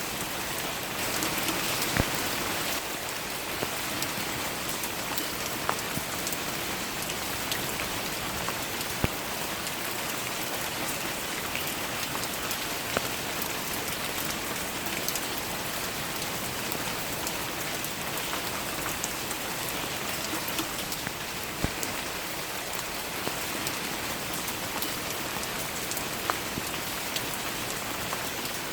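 Steady rain falling on a surface, with louder individual drops landing sharply every second or so.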